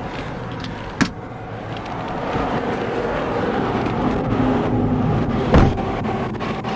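Road vehicle noise, growing louder from about two seconds in, with a sharp click about a second in and a louder knock near the end.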